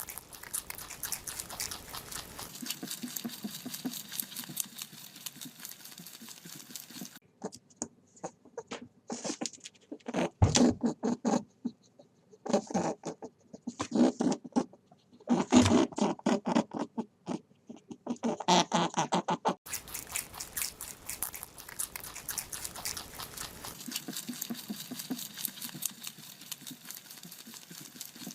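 Rabbits chewing food, a fast run of small crisp crunching bites, louder and in bunches through the middle.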